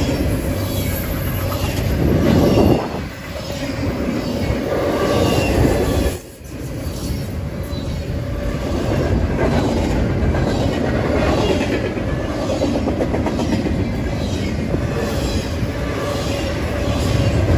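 Double-stack intermodal freight train rolling past close by: a steady heavy rumble of steel wheels on rail with a rhythmic clicking as the cars pass. The sound dips briefly twice, about three and six seconds in.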